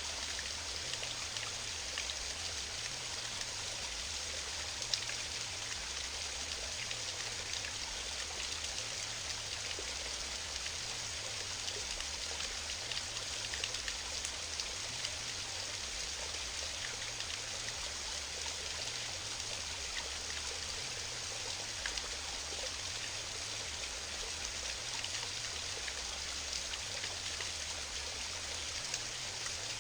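Small waterfall on a mountain stream: a steady hiss of falling and splashing water, with occasional sharper splashes.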